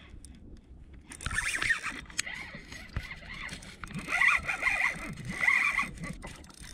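Fishing reel working against a hooked fish, a rasping whirr that comes in spurts, starting about a second in.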